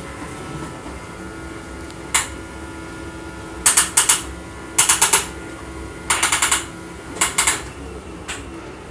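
Vacuum cleaner running with a steady hum, broken by a click about two seconds in and then several short bursts of rapid rattling clicks.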